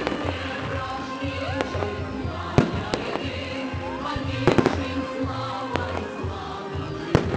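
Fireworks salute: aerial shells bursting in sharp bangs. The loudest comes about two and a half seconds in, a quick run of three about four and a half seconds in, and another near the end. Music plays steadily underneath with a pulsing low beat.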